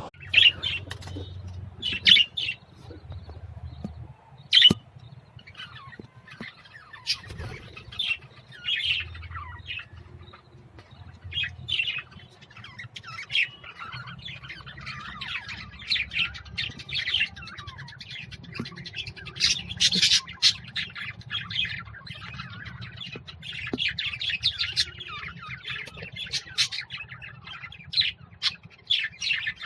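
Caged birds chirping and squawking, many short, sharp calls following one another, over a low steady hum.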